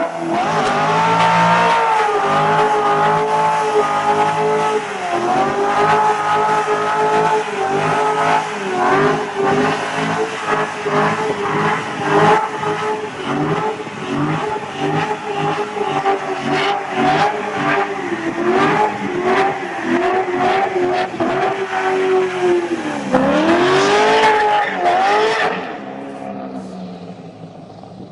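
Muscle car engine revving hard through a burnout with tyres squealing, the revs pulsing up and down about once a second. Near the end the revs drop sharply, climb once more, then fade.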